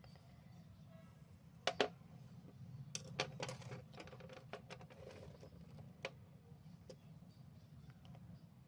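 Scattered sharp clicks and taps of small hard objects being handled: a double click a little under two seconds in, a quick cluster about three seconds in, and a single click near six seconds, over a faint low hum.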